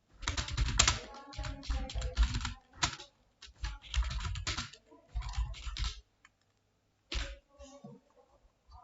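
Typing on a computer keyboard: quick runs of keystrokes in bursts of a second or so with short pauses between, then a single stroke a little after seven seconds.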